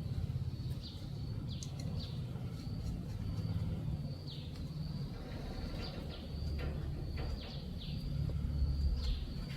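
Small birds chirping, short falling calls repeated about once a second, over a low steady rumble.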